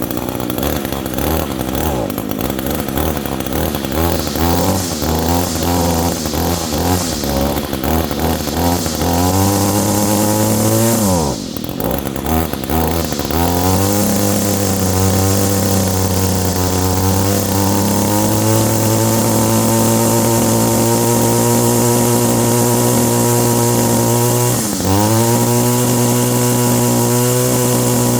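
Echo GT225 two-stroke string trimmer engine, freshly tuned with a new spark plug and air filter, running unevenly at first and then revving up to a steady high speed. The revs drop briefly and recover twice, about eleven seconds in and again near the end.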